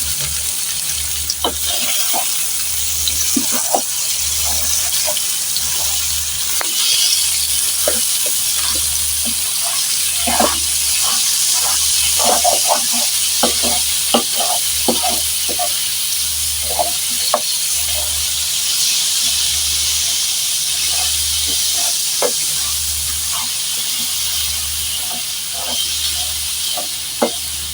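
Food frying in a pan: a steady sizzle, with scattered clicks and knocks of a utensil stirring.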